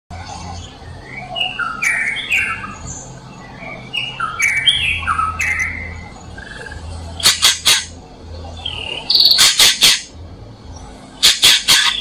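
Wild birds calling: a phrase of quick whistled notes sliding up and down, given twice in the first half, then harsh calls in quick runs of four or five, heard three times.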